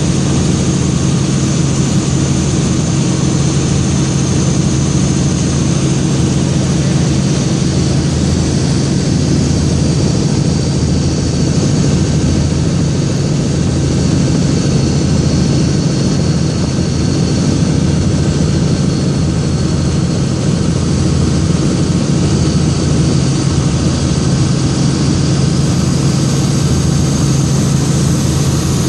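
Helicopter in flight: a steady, loud low drone from the rotor and engine with a constant high turbine whine over it.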